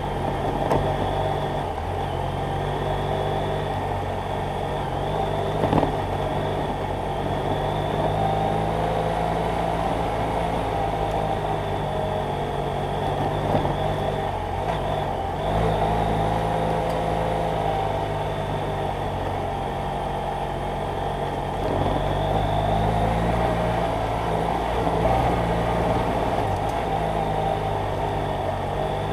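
BMW F800GS Adventure's parallel-twin engine running steadily under way, its note shifting a few times as the throttle changes.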